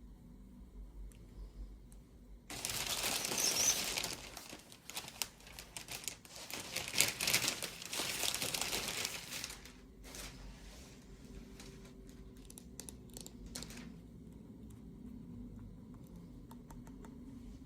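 Packaging crinkling and tearing as it is opened, in a dense stretch lasting several seconds, followed by a few scattered small clicks and rustles.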